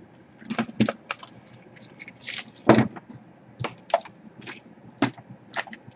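Irregular sharp clicks and knocks of a laptop's plastic case and parts being handled during reassembly, about a dozen, the loudest about three seconds in.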